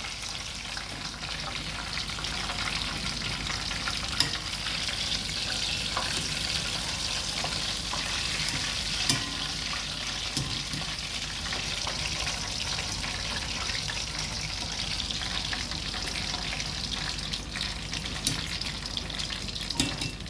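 Breadcrumb-coated chicken strips frying in hot oil over a medium gas flame: a steady sizzle, with a few sharp clicks, the clearest about 4 and 9 seconds in.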